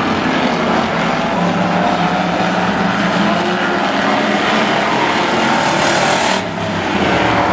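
Several demo trucks' engines running loudly as they race around a speedway oval. A rushing hiss builds near the end and cuts off suddenly.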